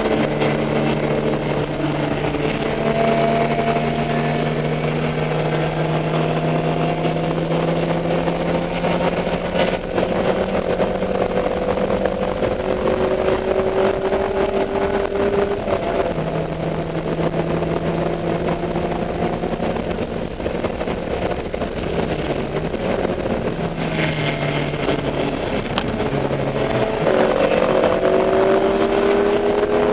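Dodge Neon race car's four-cylinder engine running hard under load, its pitch climbing slowly through long pulls, broken by a few drops in pitch in the second half as the driver shifts or lifts.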